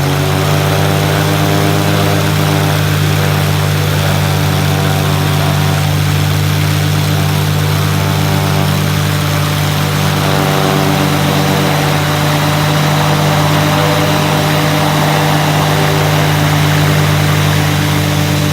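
Viking 110 Honda-based aircraft engine and propeller of a KitFox running steadily at a constant power setting, a loud, even drone holding one pitch throughout.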